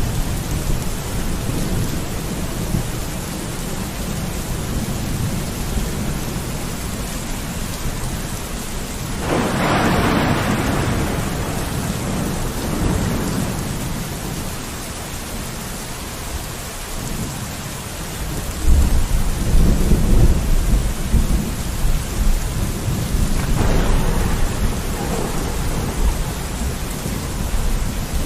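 Steady rain falling on a window, with a swell about a third of the way in and a deep low rumble building about two-thirds through.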